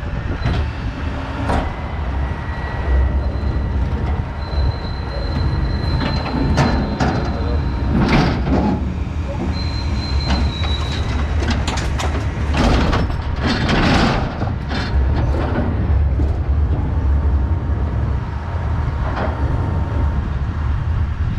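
McNeilus rear-loader garbage truck emptying a metal dumpster into its hopper: the truck's diesel engine running under hydraulic load, with high metal-on-metal squeals and repeated clanks and bangs of the steel container.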